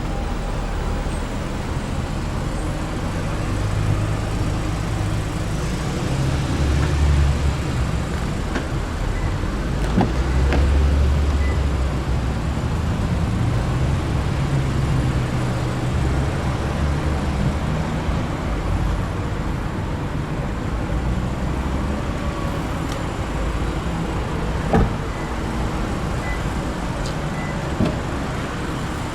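Low, steady motor-vehicle rumble that swells and fades several times. It is punctuated by a few sharp knocks, about ten seconds in and twice near the end.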